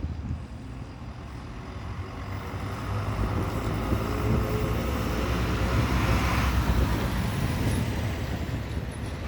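MAZ-103 city bus running on a methane (compressed natural gas) engine, heard from inside the cabin, getting louder over the first several seconds as the bus picks up speed.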